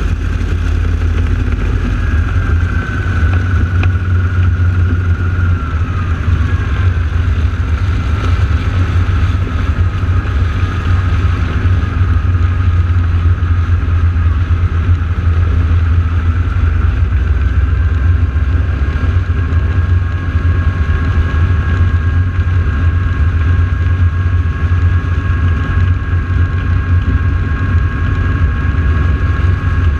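AeroShell team's North American T-6 Texan radial engines running on the ground before takeoff: a steady low drone with higher tones over it. One tone drops in pitch a few seconds in, and another steadies about halfway through.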